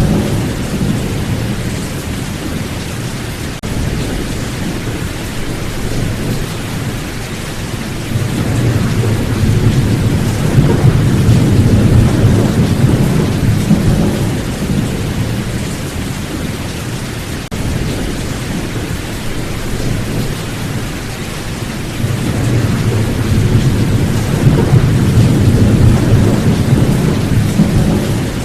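Steady rain with rolling thunder, a low rumble that swells up twice: about eight seconds in and again about twenty-two seconds in.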